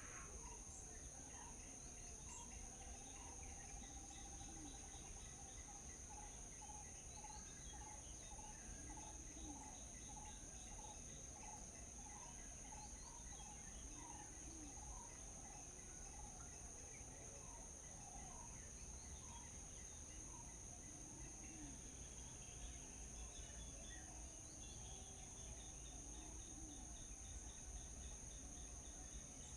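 Faint morning bird and insect ambience: a steady high-pitched insect drone throughout, a bird repeating a short note about twice a second for much of the time, and a low call recurring every few seconds.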